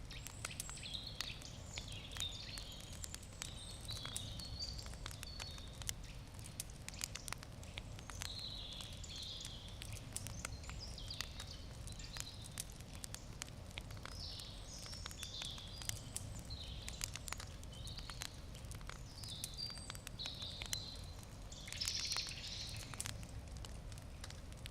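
Wood campfire crackling, with frequent small sharp pops and snaps. Birds chirp in the background throughout, loudest near the end.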